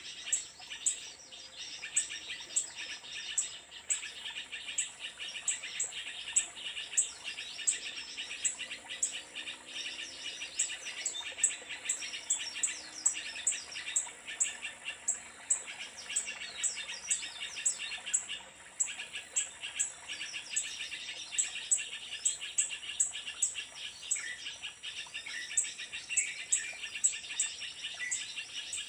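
Small birds giving short, sharp, high chirps several times a second over a steady drone of crickets and insects.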